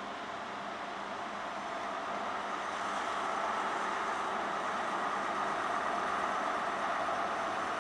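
Diesel trains running in a station: a steady engine drone and hiss that grows louder about two seconds in as a train moves along the far platform.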